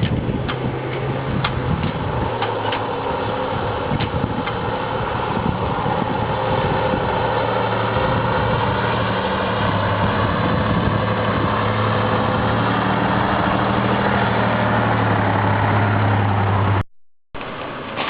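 Heavy URAL 6x6 truck engine running steadily, its note dropping a little about halfway through, with scattered knocks in the first few seconds. The sound cuts out for a moment near the end.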